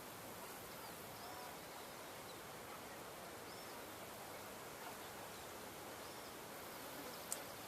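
Faint steady outdoor background hiss, with a small bird's short chirps repeating every second or so and a sharp click near the end.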